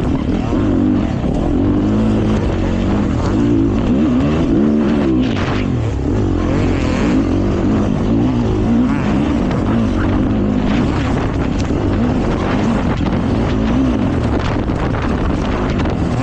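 Honda CRF450RX four-stroke single-cylinder dirt bike engine revving up and falling back again and again as it is ridden hard through a series of turns.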